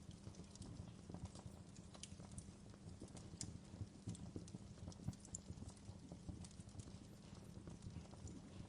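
Wood fire crackling in a fireplace: faint, irregular pops and snaps over a steady low undertone.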